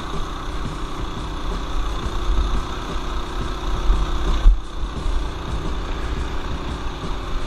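Mini bike's small single-cylinder four-stroke engine running steadily while riding, under heavy low rumble of wind on the action-camera microphone. About four and a half seconds in there is a loud jolt, and the sound drops out briefly.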